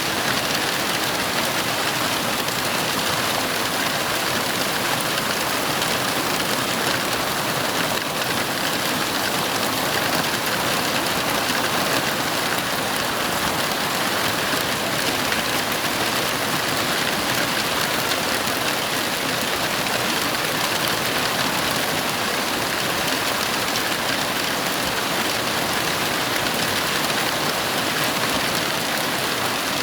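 Heavy rain falling steadily, an even hiss at a constant level with no thunder.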